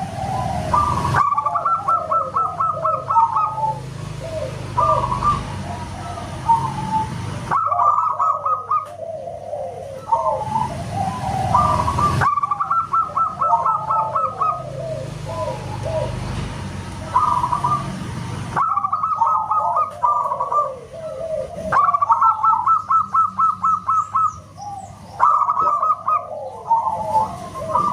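Zebra doves (perkutut) cooing: repeated phrases of rapid, staccato trilled notes, several overlapping at once. The background hiss changes abruptly every few seconds where recordings are cut together.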